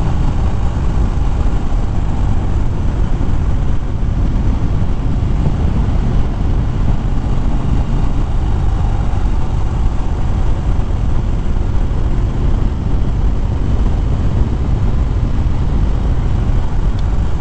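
Wind rushing over a helmet-mounted microphone on a moving motorcycle, with the Harley-Davidson Fat Bob's V-twin engine running underneath at a steady cruise. The noise is loud, dense and deep, with no sudden events.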